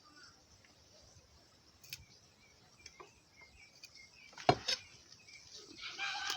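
Knife cutting vegetables on a board: a few sparse, sharp cuts, the loudest about four and a half seconds in.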